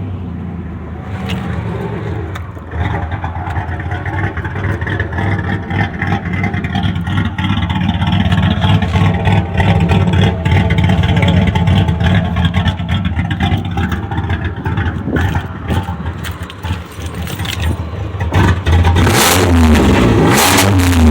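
Straight-piped exhaust of a cammed Pontiac Grand Prix V6, loud and running steadily just after starting, then revved up and down near the end.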